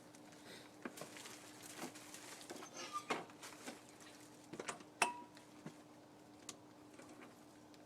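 Quiet room tone with a faint steady hum and scattered small clicks and knocks, the loudest a sharp metallic-sounding click with a brief ring about five seconds in; no engine running yet.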